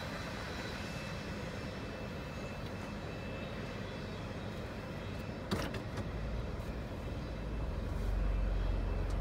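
Freight train rumbling away into the distance, heard from inside a car. A sharp click about halfway through, then a low engine rumble that grows louder near the end as the car pulls forward.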